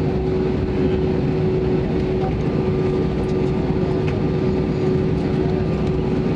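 Airbus A320 airliner's jet engines at takeoff power, heard from inside the cabin: a steady, loud drone with a held hum over a deep rumble.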